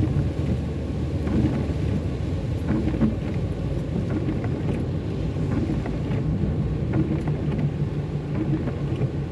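Car driving on a wet road, heard from inside: a steady low rumble of engine and tyres, with a few faint scattered ticks.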